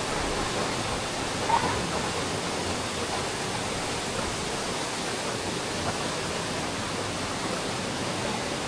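Steady rushing noise of falling water, with a brief faint voice about a second and a half in.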